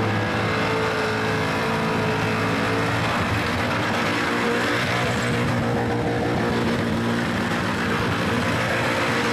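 A Holden Commodore's LS2 V8 held at steady high revs through a burnout, its spinning rear tyres squealing on the pad.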